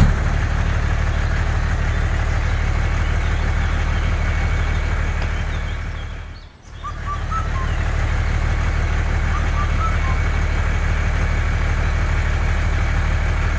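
Steady, low engine drone with an even pulse. It fades out about six and a half seconds in and comes straight back.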